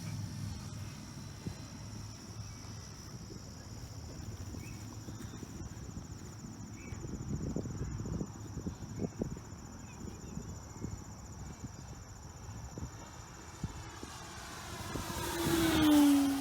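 Seagull Sport Cruiser RC plane, driven by an E-flite Power 90 electric motor and propeller, passing fast near the end; its whine swells loudly and drops in pitch as it goes by. Underneath is a low wind rumble and a steady high insect drone.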